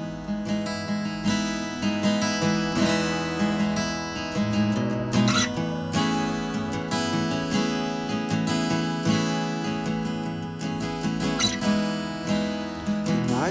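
Acoustic guitar playing chords in an instrumental introduction, with a steady run of picked and strummed strokes.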